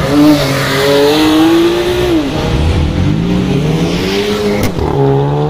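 Car engines accelerating hard. The engine note rises, drops about two seconds in as at an upshift, then climbs again. A fresh rising engine note starts near the end.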